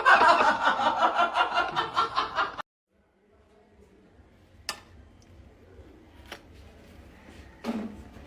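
A person laughing hard in quick, rhythmic bursts, cut off abruptly about two and a half seconds in. A faint, quiet stretch follows with a few short knocks.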